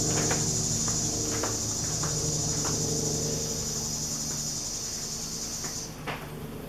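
A steady high-pitched insect drone that cuts off suddenly near the end, over a low steady hum. A few light clicks and knocks come from bottles and measuring containers being handled.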